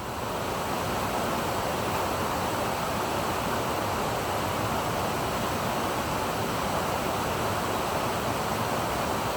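Waterfall rushing: a steady, even roar of falling water that fades in at the start.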